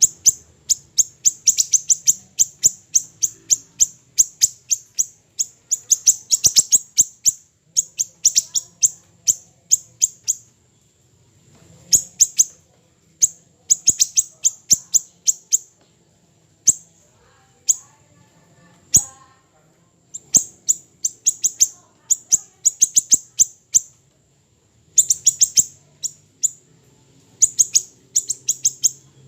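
Siri-siri kecil songbird calling in rapid strings of sharp, very high chirps, in bursts of several notes with short pauses between them. At times a thin, steady high whistle is held between the bursts.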